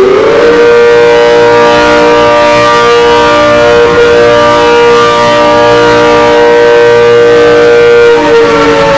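ACA Hurricane 130 civil defense siren sounding the attack signal, a wailing tone that rises and falls. Here the tone climbs in the first half second, holds steady for about eight seconds, then starts to fall near the end.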